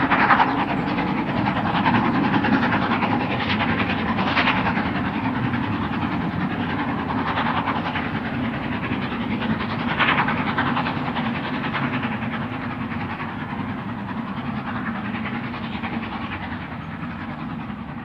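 Steam locomotive 46100 Royal Scot, a three-cylinder LMS 4-6-0, working a passenger train with its coaches running on the rails. The sound is continuous, with occasional louder surges, and slowly grows fainter toward the end.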